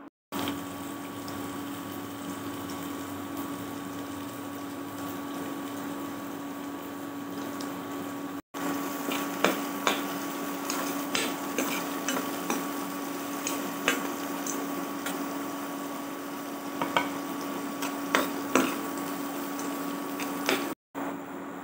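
Sliced onions, garlic and cumin seeds sizzling in oil in a steel pan, over a steady low hum. From about a third of the way in, a slotted spatula scrapes and clinks against the pan as the onions are stirred.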